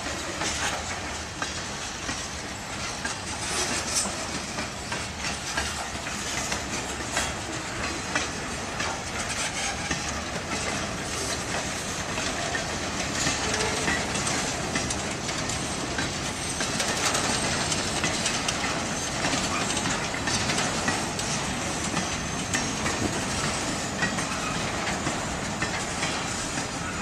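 Freight train cars rolling past, a steady rumble and hiss with many wheel clicks over rail joints.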